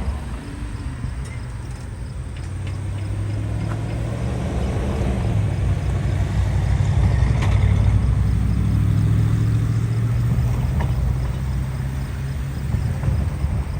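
Diesel locomotive on a long intermodal freight train passing close by: its engine drone swells to a peak about eight seconds in and then eases off, over the rolling wheel noise of the train.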